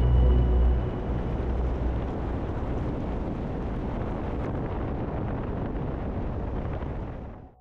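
A steady rushing noise with no pitch to it, with the last held tones of drone music fading out in the first second. It dies away quickly near the end.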